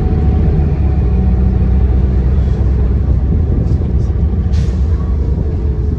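City bus under way, heard from on board: a steady low rumble of engine and road, with a short hiss about four and a half seconds in.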